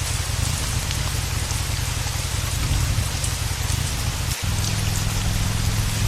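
Heavy rain falling steadily, over a low rumble. About two-thirds of the way through, the rumble breaks off for an instant and comes back slightly higher.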